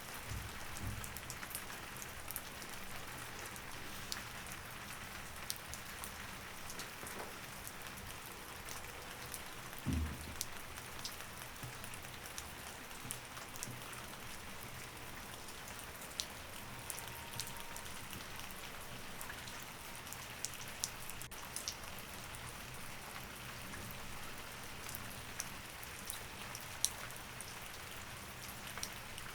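Steady rain, with many single drops ticking sharply through it. A soft low thump sounds about ten seconds in.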